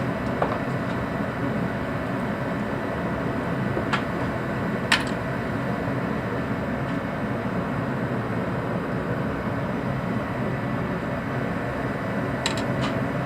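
A steady, even mechanical hum, with a few short, sharp clicks: one at about four seconds, one at about five seconds, and a quick cluster near the end.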